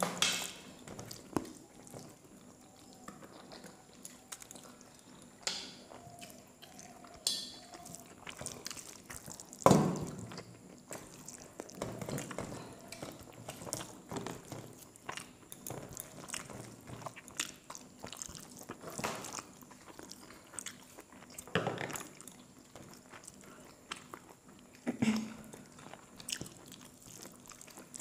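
Close-miked chewing and mouth sounds of people eating rice and chicken curry by hand, with small clicks from fingers and food and a few louder short sounds scattered through.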